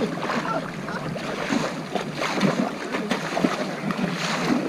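Water splashing and sloshing around touring kayaks, with a few sharper splashes of paddle strokes and wind on the microphone.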